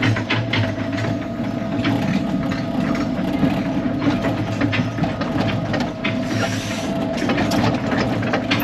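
Tracked excavator on the move: its diesel engine running steadily under a constant clatter of steel track links clicking and clanking as it tracks forward through the mud of the dam.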